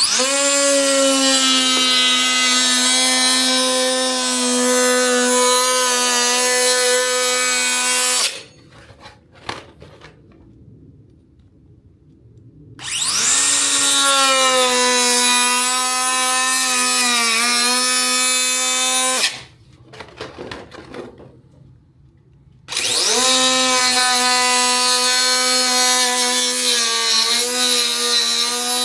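Small high-speed power tool cutting through a fiber-metal welding hood shell: a high-pitched motor whine that spins up quickly and runs for several seconds at a time, three times, with short pauses and small handling knocks between runs. Its pitch sags briefly now and then as the cutter bites under load.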